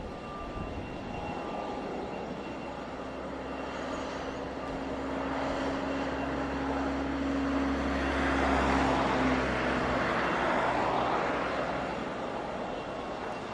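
Airbus A321neo jet engines on approach, passing by: a steady whine and low rumble that swell to a peak a little over halfway through and then fade away.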